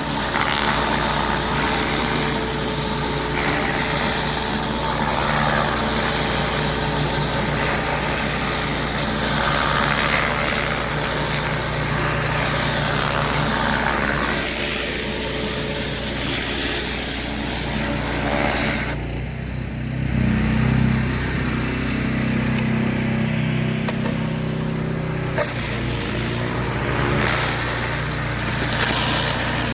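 Gas pressure washer engine running steadily under the hiss of high-pressure water spray. The hiss drops away for several seconds about two-thirds of the way through while the engine note wavers, then comes back.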